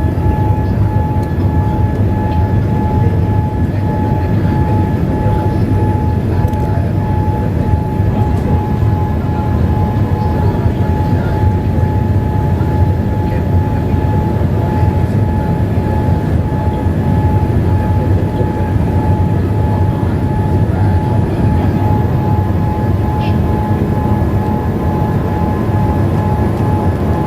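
Steady cabin noise of a Boeing 787-8 airliner in flight: a constant low rumble of engines and airflow with a thin steady whine above it.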